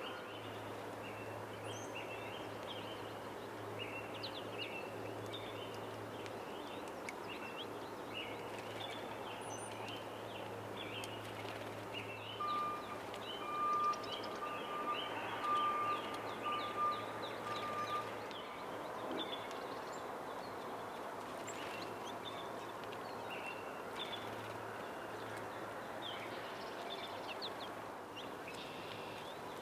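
Many small birds chirping and twittering with short, quick high notes throughout. About halfway through, a louder string of steady whistled notes on one pitch repeats for a few seconds, over a faint low hum.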